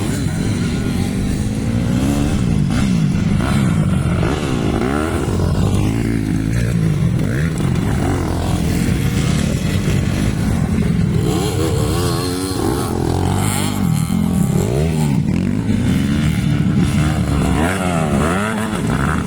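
Several motocross bikes racing, their engines revving up and down and overlapping as they accelerate and back off around the track.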